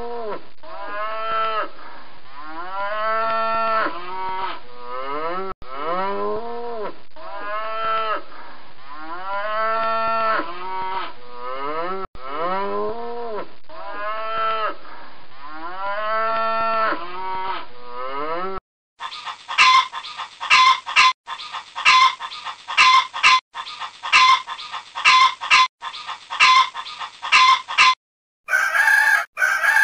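Cattle mooing: a run of rising-then-falling calls, one after another, repeated in a loop for about eighteen seconds. Then a quick series of short, sharp animal calls, several a second, and near the end another animal's calls begin.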